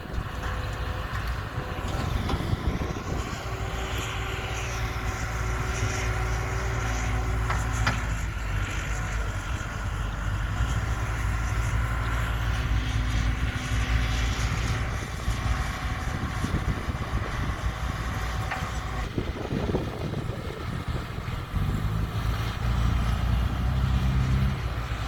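Heavy diesel machinery running steadily: a Caterpillar 312B excavator and a dump truck at work, the engine note shifting as they work. There is a single sharp knock about a third of the way through.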